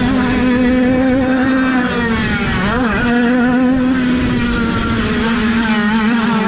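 Small two-stroke 50cc minicross motorcycle engines running at high, steady revs. A second engine note sweeps across briefly about three seconds in.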